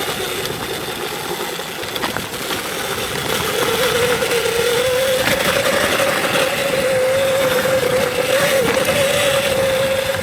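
Electric dirt bike's motor whining as it is ridden, rising a little in pitch and getting louder a few seconds in as it speeds up, then holding steady over a rushing noise.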